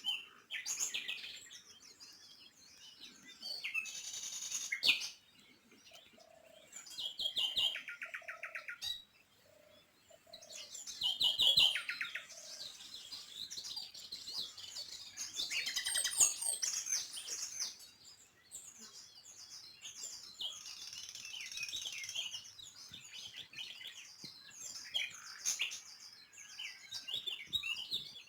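Small songbirds chirping and singing, many short calls and rapid trills overlapping throughout.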